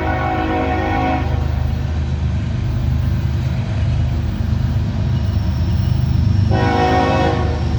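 Diesel freight locomotives' air horn sounding, cutting off about a second in and blowing again for about a second near the end, over the steady low rumble of the passing CSX rock train.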